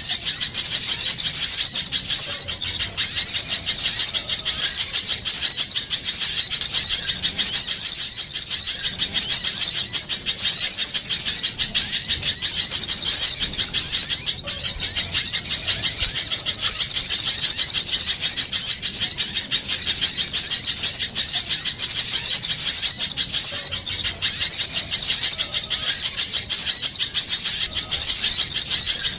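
Dense, unbroken chorus of many small birds chirping and twittering rapidly in high-pitched, agitated calls: a bird-lure recording of a noisy small-bird flock.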